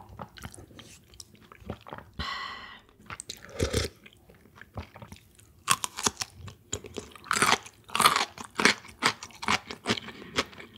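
Close-miked chewing of crunchy food, with a short pitched sound about two seconds in, then a run of loud, quick crunches from about halfway through.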